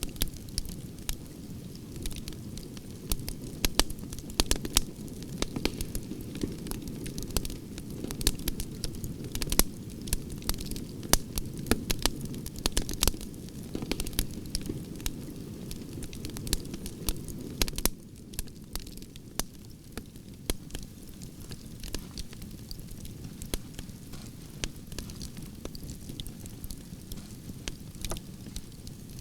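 Campfire of burning branches crackling: frequent irregular sharp pops and snaps over the steady low rush of the flames.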